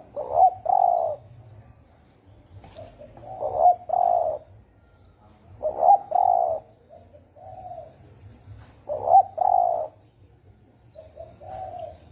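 Spotted dove cooing: four phrases about three seconds apart, each ending in two loud, low coos, with softer single coos between them.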